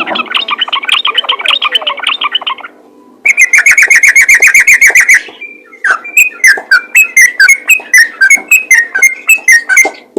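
Yellow-vented bulbul (trucukan) singing in a rapid 'ropel' run of chirping notes. The run breaks off about three seconds in, returns as a loud, very fast burst, pauses briefly, and goes on as slower repeated notes.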